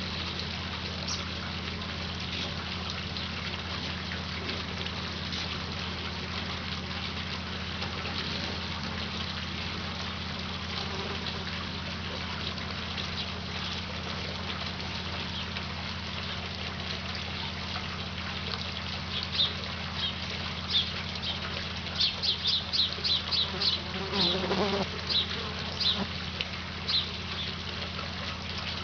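Hummingbirds giving short, sharp, high chip calls, a few at first and then a quick chattering run of them in the second half, as they squabble over a feeder, over a steady hiss.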